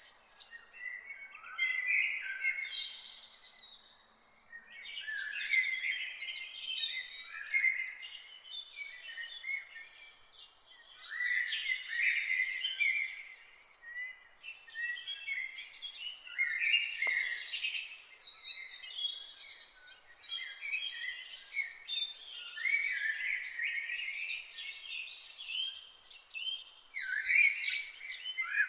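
A morning chorus of several songbirds singing at once, in overlapping chirps, trills and warbled phrases. A soft hiss of ambience runs underneath, and a single faint click falls about midway.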